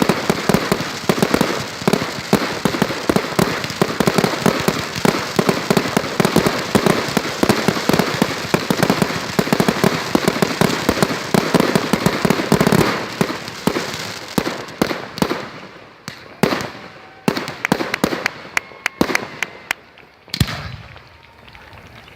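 Consumer fireworks going off: dense, rapid crackling and popping for about the first thirteen seconds, then thinning out to scattered pops and bangs with short gaps between them.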